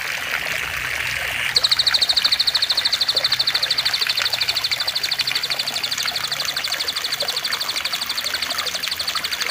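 A bird's long, rapid, even trill, high-pitched at about a dozen pulses a second, starting about a second and a half in and holding steady, over a bed of trickling water.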